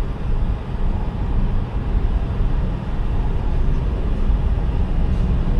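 Steady low road and engine rumble of a car driving.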